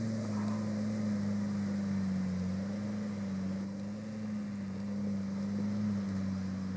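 Off-road vehicle engine running steadily at low revs, a constant drone whose pitch wavers only slightly.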